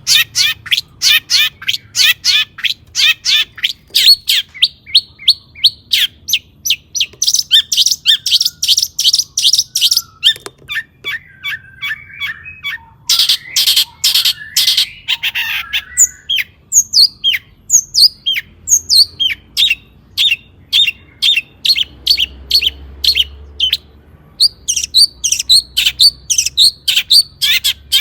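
Long-tailed shrike singing a fast, continuous string of sharp, high repeated chirps in varied phrases, with a harsher, scratchy stretch about halfway through.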